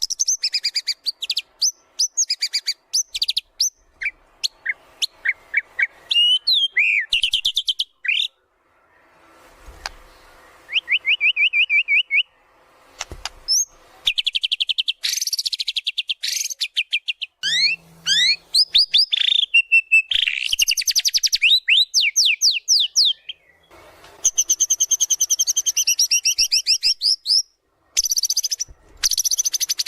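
White-rumped shama (murai batu) singing at full voice: a varied run of rapid trills, sweeping whistles and chattering phrases broken by short pauses. The song is packed with 'isian', phrases mimicked from other birds.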